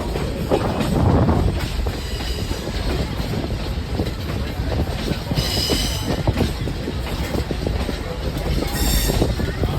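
Passenger train rolling along the track, heard from aboard: a steady rumble with rattling clacks of wheels over rail joints. Brief high-pitched wheel squeals come twice, about five seconds in and again near the end.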